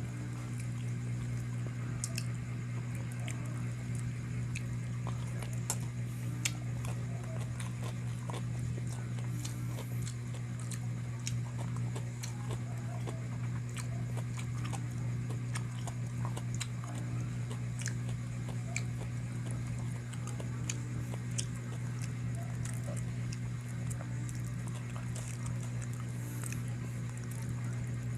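Person chewing and biting into chicken, scattered small mouth clicks and smacks, over a steady low hum.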